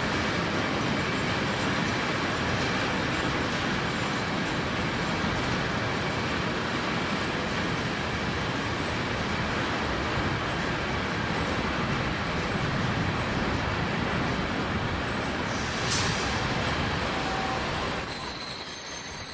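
Freight train rolling past on a far track, a steady, even rolling noise of wagons passing. There is a single sharp click about sixteen seconds in, and near the end the low rumble thins and a thin, high squeal sets in.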